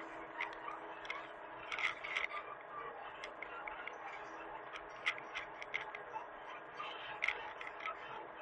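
A steady machine hum with many irregular sharp clicks and light scrapes over it, a few each second.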